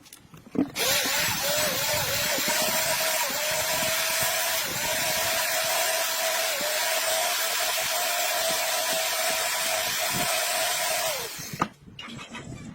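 A handheld electric power tool runs for about ten seconds, a steady high motor whine over a loud hiss. Its pitch sags briefly a few times as it bears on the work, and it winds down at the end.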